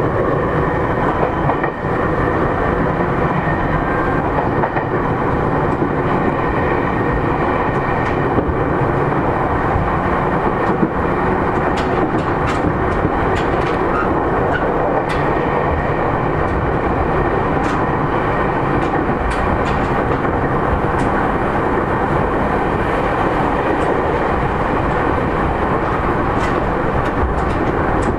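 JR East E231-3000 series electric train running, heard from inside the car: a steady rumble of wheels on rail, with scattered sharp clicks through the second half.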